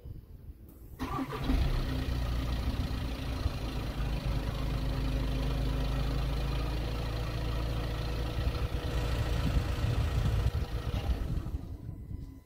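Seat Alhambra's engine starting about a second in, then idling steadily, and dying away near the end as it is switched off.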